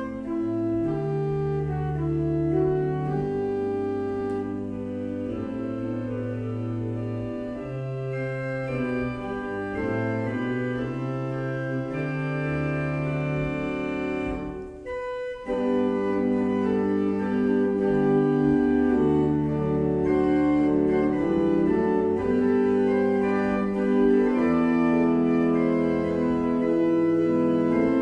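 Church organ playing a postlude of sustained chords over a moving bass line. It breaks off briefly about halfway, then comes back louder.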